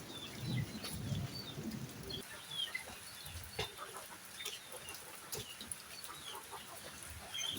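Chickens clucking, with short calls scattered through. A low rumble is there for the first two seconds and cuts off suddenly.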